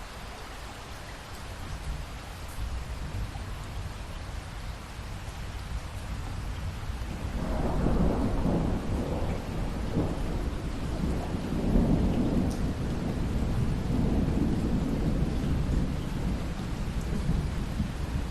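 Steady rain falling, with a long roll of thunder that builds about seven seconds in and rumbles on, loudest about halfway through.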